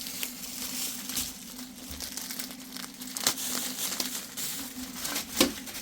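Plastic wrapping crinkling and rustling as a package is opened by hand, with a few sharper crackles, one about three seconds in and one near the end.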